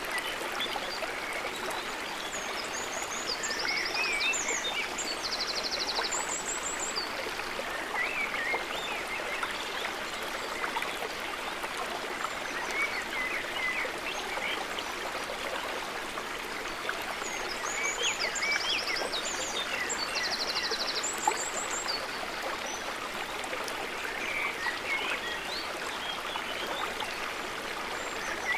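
Running water of a stream or river, a steady rushing and trickling. Small high chirps come and go over it, and clusters of short, rapid high trills sound twice.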